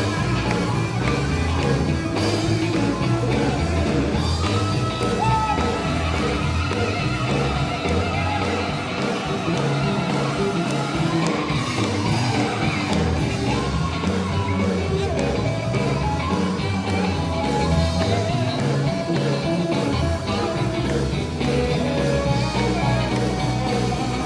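A sacred steel gospel band playing live, led by steel guitar, with singing.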